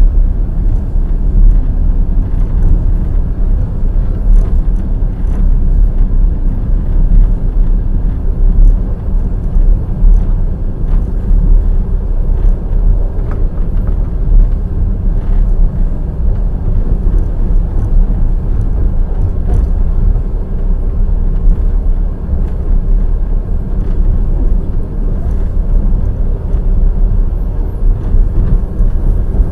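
Passenger train's wheels running on the rails at speed: a loud, steady low rumble with faint scattered clicks.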